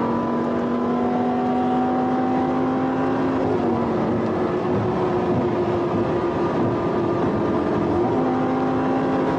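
A vehicle engine held at high, steady revs at speed, under heavy wind and road noise; its pitch shifts slightly a few seconds in and again near the end.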